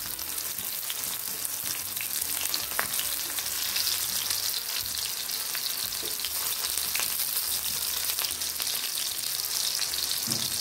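Mutton keema kebab patties sizzling in shallow oil in a nonstick frying pan over a high flame, a steady hiss of frying, with a few light taps of a spatula moving them.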